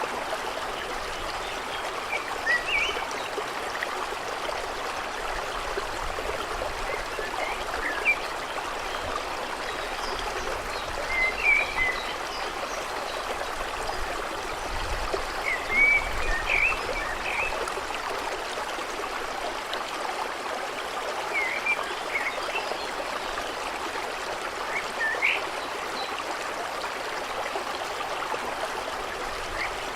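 Steady rushing of a stream over stones, with short bird chirps now and then.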